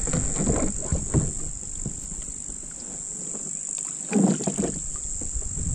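Scattered knocks and handling sounds on a fishing kayak as a small fish is dealt with, louder for a moment about four seconds in, under a steady high drone of insects.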